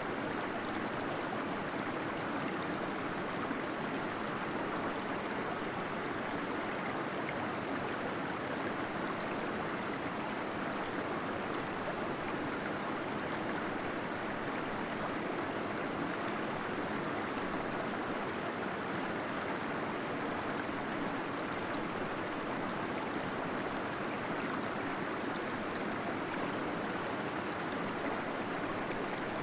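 Small waterfall splashing and gurgling steadily in a cave, a continuous even rush of flowing water.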